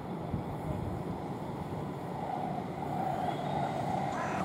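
Class 455 electric multiple unit running past: a steady rumble of wheels on rail, with a tone that comes in about halfway and grows louder. A crow caws once near the end.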